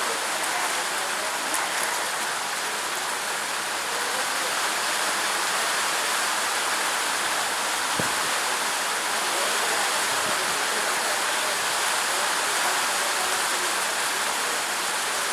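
Steady rain falling, an even hiss, with a single sharp knock about eight seconds in.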